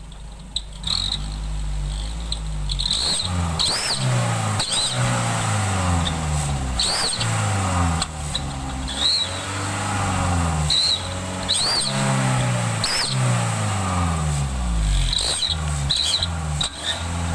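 Daihatsu Gran Max van's engine revved again and again through a trial exhaust, its note rising and falling roughly once a second, with short high chirps over the revs.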